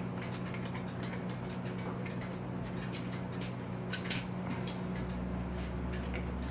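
Hand tool working a bolt loose on a motorcycle's metal parts: a run of small irregular clicks, with one sharp, ringing metallic clink about four seconds in, over a steady low hum.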